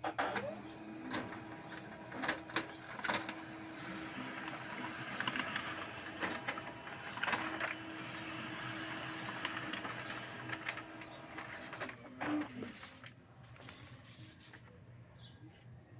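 M2070W multifunction printer running its mechanism: a steady mechanical whir with a low hum and several sharp clicks, which stops about twelve and a half seconds in.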